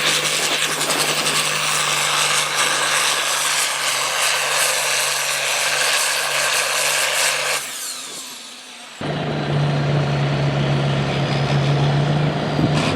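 International 666 farm tractor's engine running hard under load, pulling the sled. The sound fades and drops out about eight seconds in, then comes back a second later, steady and strong.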